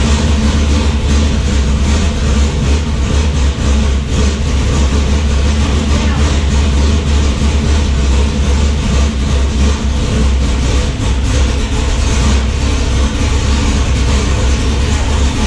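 Freshly built 410 cubic-inch stroker small-block Chevy V8 with Holley Sniper EFI running steadily on its first start-up after the engine build.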